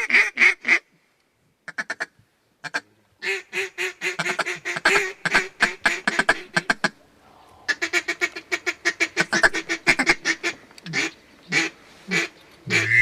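Mallard duck call blown in fast runs of short quacks and chatter, with brief pauses between the runs and slower single quacks near the end, to coax in passing ducks.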